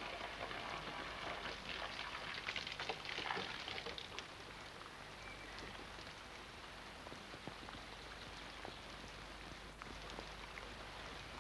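Steady rain falling, with the patter of individual drops ticking on surfaces; heavier in the first few seconds, then lighter.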